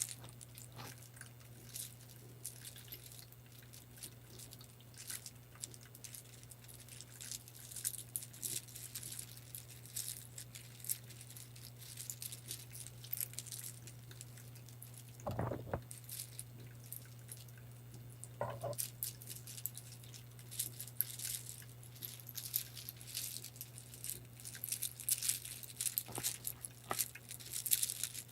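Light clicking and rattling of small hard objects handled close to the microphone, many quick ticks with two louder knocks about halfway through, over a steady low hum.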